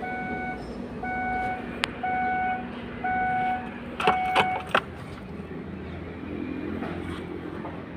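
An electronic beep repeating about once a second, five times, followed by a few sharp clicks, over a low steady hum.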